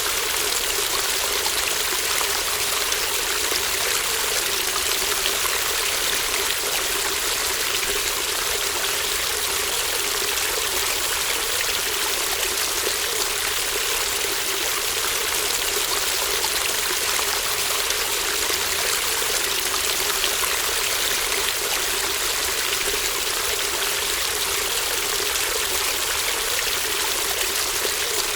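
A shallow brook babbling and trickling over stones, a steady, even rush of running water with no breaks.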